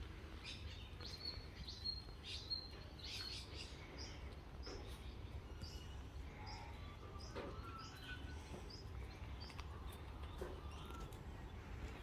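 Small birds chirping: short high chirps, closely packed in the first few seconds and spaced out after, over a steady low background rumble.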